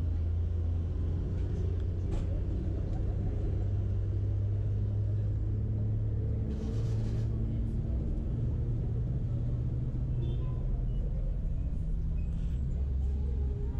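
Car engine running with a steady low rumble, shifting slightly in pitch, with a short burst of hiss about halfway through.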